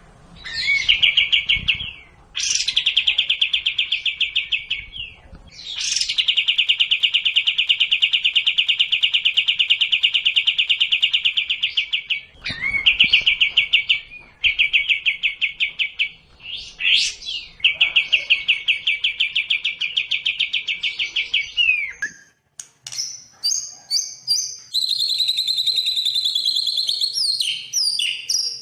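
Songbird song from a sekoci and murai batu (white-rumped shama) masteran recording. Long runs of rapid trilled notes, each lasting several seconds, give way about 22 seconds in to a varied song of clear whistles and gliding notes.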